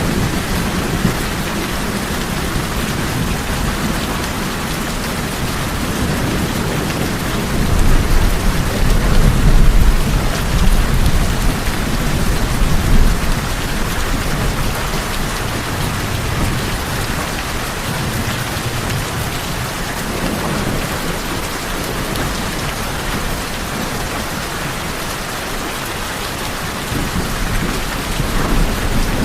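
Steady heavy rain drumming on tin roofs, with a low rumble of thunder swelling about a third of the way in and again near the end.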